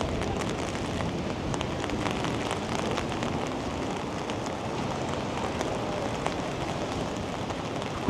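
Steady rain falling, with many small scattered drop ticks over an even hiss. A single sharp knock right at the end.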